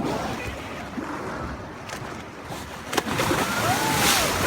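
Sea water sloshing and splashing around a small boat, with a knock about three seconds in and a louder rush of water toward the end.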